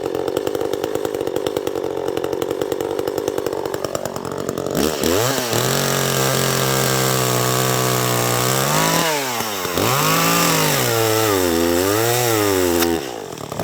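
Two-stroke Echo chainsaw ticking over, then opened up to full revs about five seconds in. The note sags and recovers several times as the chain bites into a tree trunk, then falls away suddenly near the end as the chain jumps off the bar.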